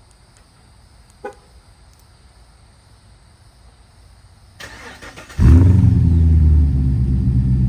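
A 2008 Pontiac G8 GT's 6.0-litre V8, with its new exhaust, is started: the starter cranks briefly, the engine catches about five and a half seconds in and settles into a loud, steady idle. Before that it is quiet apart from a single click about a second in.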